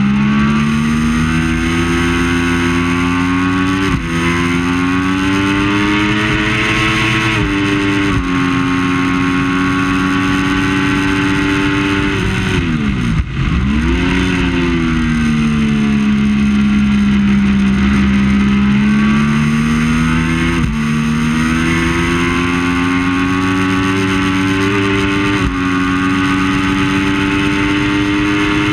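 Triumph Daytona 675's three-cylinder engine under hard acceleration, the revs climbing and dropping sharply at each upshift. About halfway through the revs fall steeply and come back up as the bike brakes and downshifts for a corner, then it pulls up through the gears again before the revs fall once more near the end.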